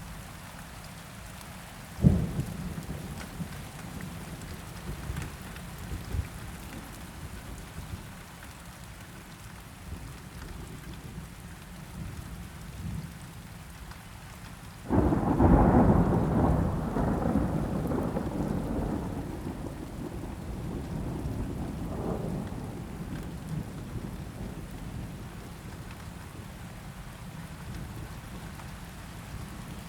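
Steady rain with thunder. A sharp thunderclap comes about two seconds in, then about halfway through a loud rolling rumble of thunder sets in and fades away over several seconds.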